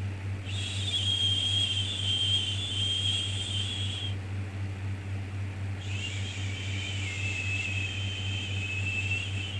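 A soothing 'shhh' hushing sound for a baby, drawn out twice, each about three and a half seconds long. It plays over a steady low hum of background noise.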